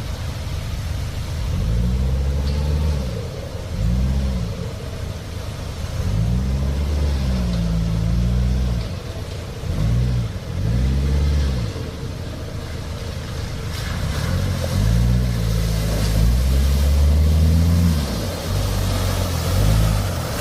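Nissan 4x4 pickup truck's engine revving up and down in a string of short surges, some held for a couple of seconds, as it works through mud.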